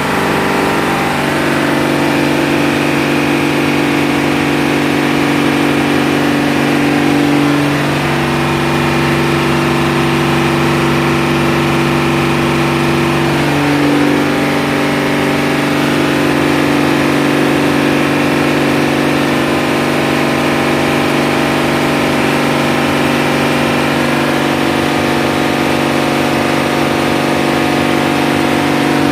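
Diesel engine of a firefighting pump set running steadily on test, with a few slight shifts in its tone.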